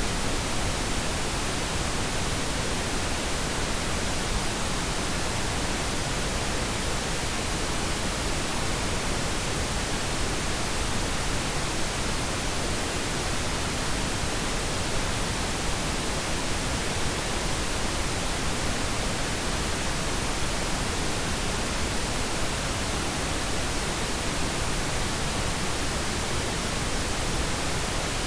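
Steady, unchanging pink noise: an even hiss spread across all pitches, softer and deeper than white noise.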